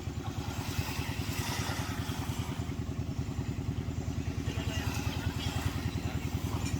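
Jet ski engine running steadily with a fast, even throb.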